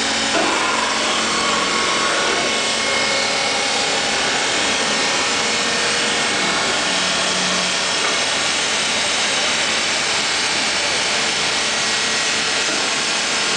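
End grinder, a grinding machine, running steadily: an even, loud mechanical noise with faint steady tones.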